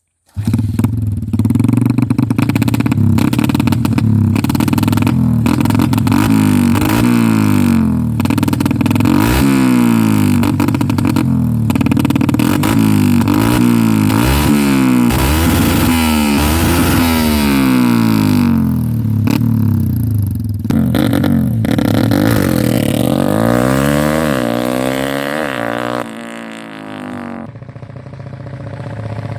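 Bored-up 155 cc Yamaha MX New single-cylinder four-stroke engine with a JRM aftermarket exhaust, revved again and again so its pitch rises and falls. Near the end it drops to a lower, steadier idle. Its exhaust note is the deep, thunder-like sound the owner calls "gledek".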